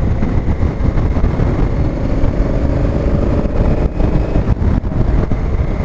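Honda Africa Twin motorcycle riding at road speed, a steady low rush of wind and engine, with the engine's note coming through faintly in the middle.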